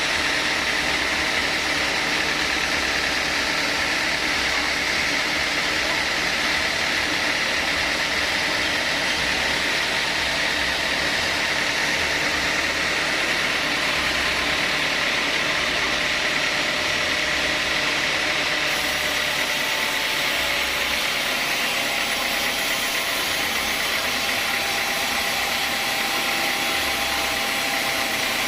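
Sawmill saw machinery running steadily: a constant, even mechanical noise.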